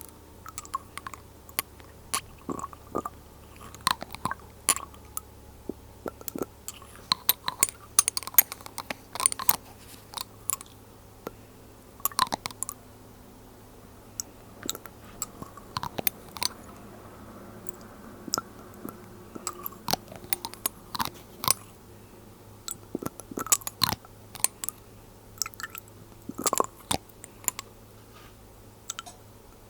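Glass dropper bottles being handled and tapped: irregular sharp clicks and taps, often several in quick succession.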